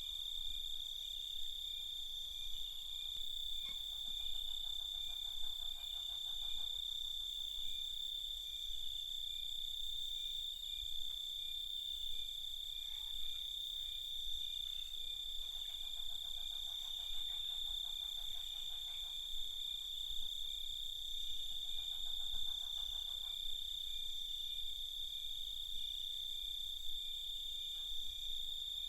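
Night chorus of crickets: a continuous high, steady trill. A lower pulsed trill comes in three times for a few seconds each, first about three seconds in.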